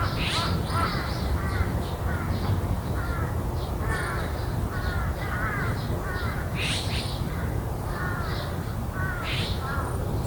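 Corvids calling in a garden: a run of short, repeated, harsh calls, one every half second or so, with a few brief higher bird calls among them over a steady low rumble.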